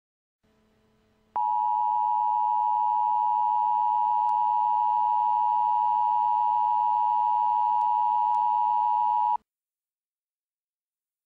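Emergency Alert System two-tone attention signal: two steady tones just under 1 kHz sounding together, 853 and 960 Hz. It starts abruptly about a second in, holds for about eight seconds, then cuts off sharply. The signal announces an emergency alert message that is about to be read. A faint hiss of the broadcast line comes in just before it.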